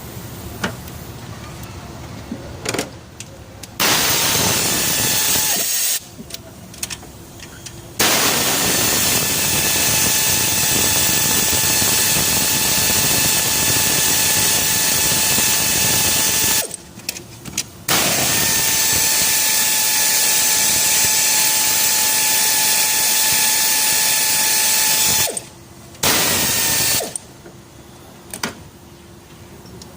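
Power tool spinning in four runs with a steady whine: two long ones of about eight seconds each, one in the middle of the clip and one later, with shorter runs before and after. It is used on the engine during cylinder head removal.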